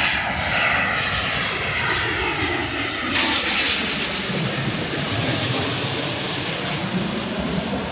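Large jet airliner passing close, its engines a loud, steady rush; a high whine comes in sharply about three seconds in and holds until near the end.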